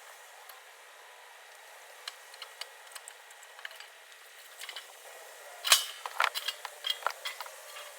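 Wood fire crackling in a fire pit: scattered small pops and ticks over a faint hiss, then a quick run of louder sharp cracks a little before six seconds in.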